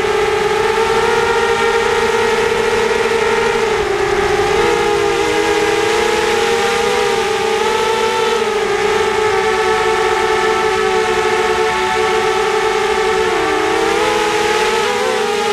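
Quadcopter's brushless motors (SunnySky 2204 2300Kv spinning 5-inch HQ 5040 props) whining steadily at flight throttle, several close tones beating against each other over the rush of the props. The pitch dips and wavers briefly about four seconds in and again near the end as the throttle changes.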